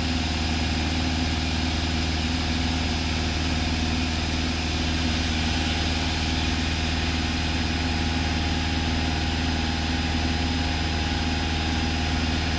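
Cessna 172's piston engine idling steadily, heard from inside the cockpit with the aircraft on the ground before departure.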